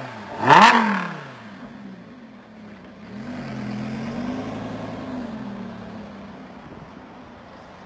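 Lamborghini Huracán LP 610-4's V10 engine revved once, a sharp rise and fall in pitch about half a second in, then a lower, steady engine note that swells and fades over a few seconds as the car pulls away.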